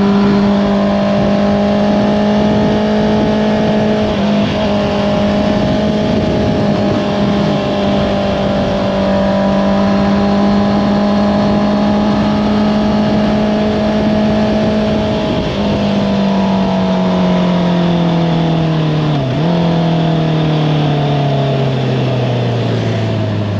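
Honda CBR650R's inline-four engine through an Akrapovič exhaust, held at steady revs under way for about fifteen seconds, then the revs falling steadily as the bike slows, with a brief dip near the end.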